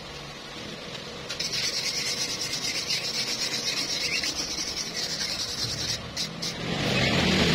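Steady scraping on metal, pulsing about four to five times a second, starting about a second in and stopping about six seconds in, followed by a few short knocks.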